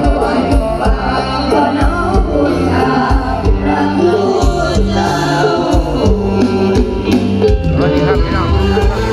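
Thai lam phloen band music, with a voice singing over bass and a steady drum beat.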